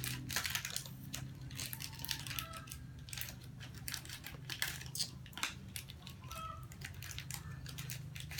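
Plastic snack packets crinkling and crackling in a series of short, irregular rustles as they are handled and opened, over a steady low hum.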